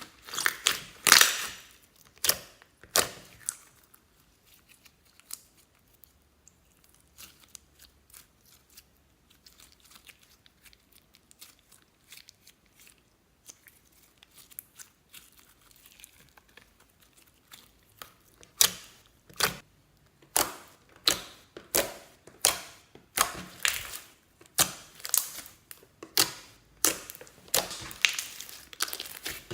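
Slime being kneaded and pressed by hand, giving sharp crackling pops as air pockets burst. There are a few loud crackles at the start and a quieter stretch in the middle. Then comes a steady run of pops, about one every two-thirds of a second.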